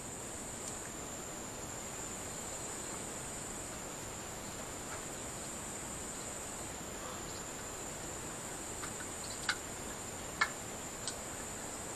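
Crickets singing in a steady high-pitched drone over a soft background hiss, with three sharp clicks near the end.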